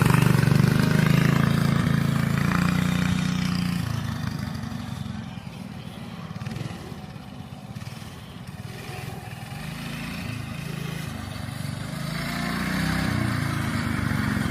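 Mini bike's 5-horsepower small engine running under throttle: loud at first, fading away through the middle, then growing louder again near the end as the bike comes back.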